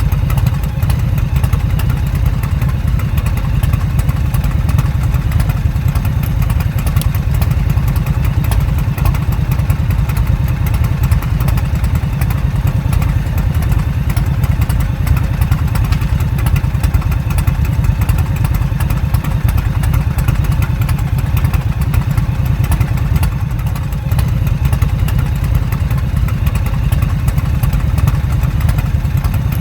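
Motorcycle engine running steadily, a low, even engine note that holds without revving up or down.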